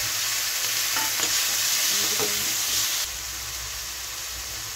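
Freshly added chopped tomatoes sizzling loudly in hot oil in a kadhai, the frying hiss dropping to a quieter sizzle about three seconds in. A spatula stirs them with a few light scrapes.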